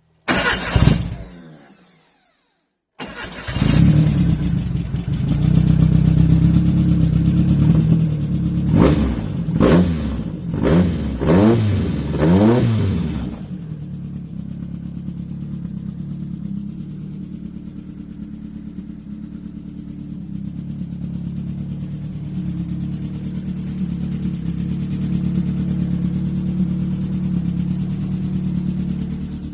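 Renault Clio 16S four-cylinder engine being brought back to life after a lay-up: it fires briefly and dies away, then about three seconds in it catches and runs. It is blipped four times in quick succession and then settles into a steady idle.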